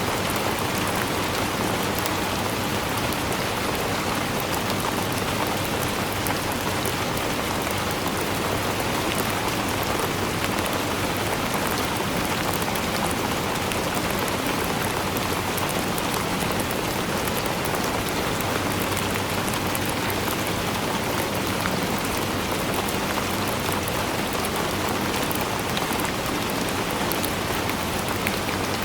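Steady rainfall: an even, unbroken hiss of rain with many fine drop ticks, holding at the same level throughout.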